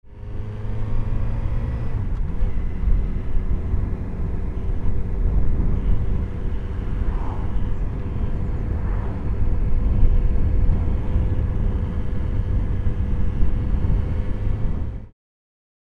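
Motorcycle engine running steadily while riding, under a heavy low rumble of wind and road noise on the microphone; it cuts off suddenly near the end.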